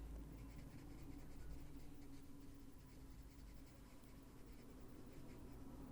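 Faint, soft scratching of a Prismacolor coloured pencil shading on colouring-book paper with light pressure, over a steady low hum.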